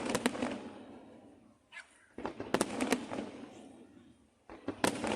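Aerial fireworks bursting: three quick clusters of sharp bangs, one at the start, one in the middle and one near the end, each fading away in a long rolling echo.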